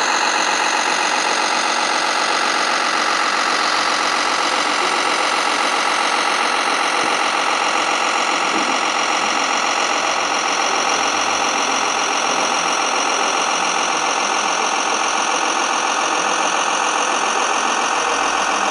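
A radio-controlled scale truck's sound module plays a simulated diesel engine idling steadily. It comes through a small speaker, so it is thin and buzzy with almost no bass.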